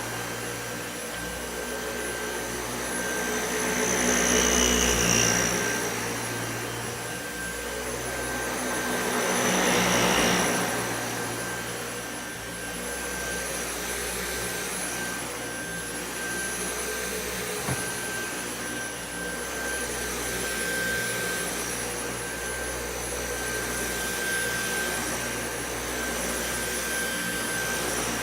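Dyson V8 Animal cordless stick vacuum running over carpet, a steady motor noise with a high whine, swelling louder twice, about four and ten seconds in. A single click sounds about two-thirds of the way through.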